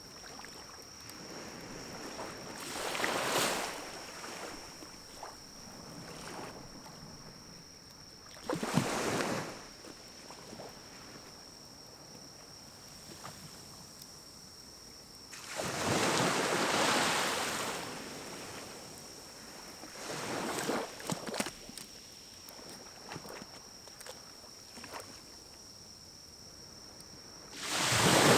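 Pine cones burning in a small wood-burning stove: scattered crackles, with a rushing sound that swells and fades five times, each swell lasting one to three seconds. Under it, a steady high insect trill.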